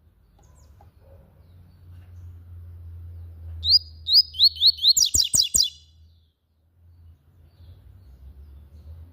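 Papa-capim seedeater singing one short phrase about four seconds in: a few quick downslurred whistled notes, then a rapid run of sharp notes, over a faint low steady hum.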